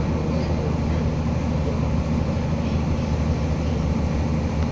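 Diesel engine of a Materfer railcar running with a steady low hum.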